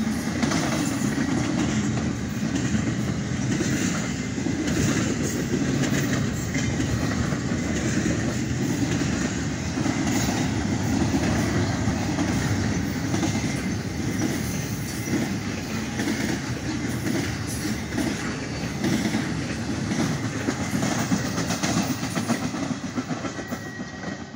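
Union Pacific double-stack intermodal freight cars rolling past close by: a steady rumble of steel wheels on the rails with a running clicking of wheels over the track. The sound starts to fade near the end as the last cars move away.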